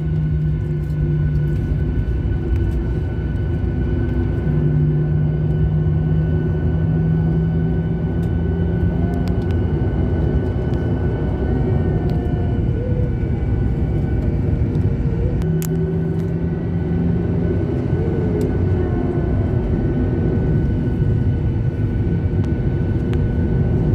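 A Lion Air jet airliner's engines heard from inside the cabin around takeoff: a steady low rumble with several steady high whine tones, growing a little louder near the end.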